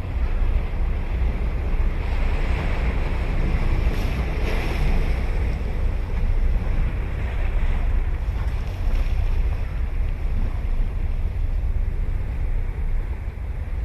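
Ocean surf breaking and washing up a sand beach, swelling to a louder crash about four to five seconds in, with wind buffeting the microphone as a low rumble underneath.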